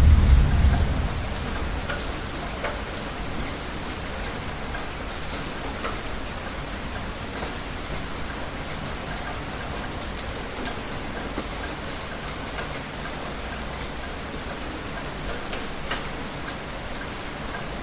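Steady heavy rain with scattered sharp drips. The tail of a thunder rumble fades away over the first couple of seconds.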